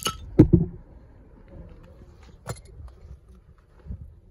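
Metal brake parts clinking and knocking as they come off a car's front hub. There is a ringing clink at the start, two heavy knocks about half a second in, another clink about two and a half seconds in, and a duller knock near the end.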